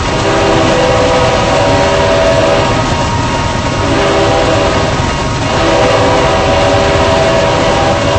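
Diesel freight locomotive's air horn sounding a multi-note chord in three blasts with short breaks between them, over the continuous rumble of the train.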